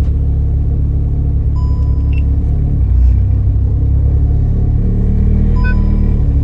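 Race car's engine and road noise heard inside the cabin: a very noisy, steady low drone that swells briefly about three seconds in. The noise comes through a track-set car with firm suspension and spherical bearings instead of rubber bushings.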